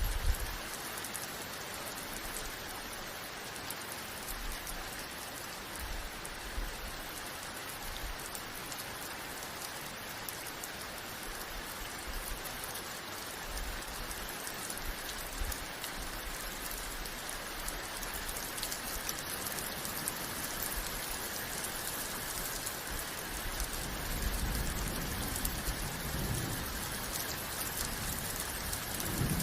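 Steady rain falling and pattering on surfaces, an even hiss throughout. A low rumble swells about 24 seconds in and again at the very end.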